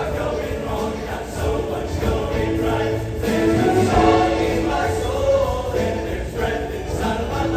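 Show choir singing long held chords over instrumental accompaniment with a steady low bass, the sound swelling a little in the middle.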